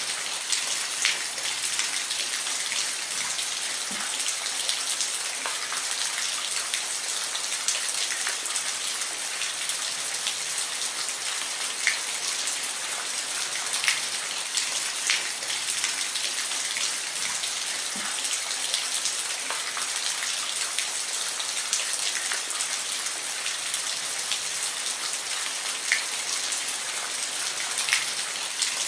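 Steady rain falling, an even hiss with frequent individual drops ticking sharply on a nearby surface.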